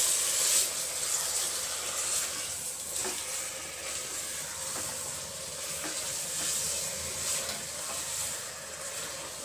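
Chicken pieces sizzling in hot oil with onion masala in a stainless-steel pressure cooker while being stirred with a wooden spatula, with a light knock about three seconds in.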